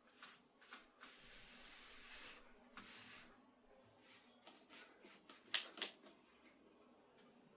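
Faint household handling sounds: a few light clicks and taps, a rustling hiss lasting about a second and a half, then a quick run of sharper taps, the loudest about two thirds of the way through.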